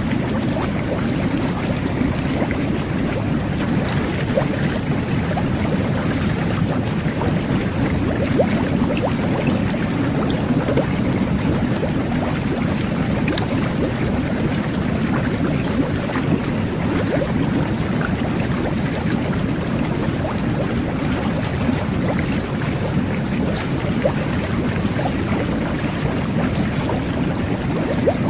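Jetted whirlpool bath running: water jets churning and bubbling in a steady low rush, with small bubbly pops throughout.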